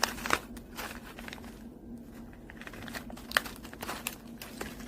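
Plastic food packaging crinkling and crackling as it is handled and torn open, with scattered sharp crackles spread irregularly.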